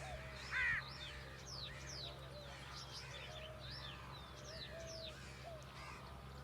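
A mix of birds chirping and twittering, with many short sweeping calls, and one loud harsh call about half a second in. A steady low hum runs underneath.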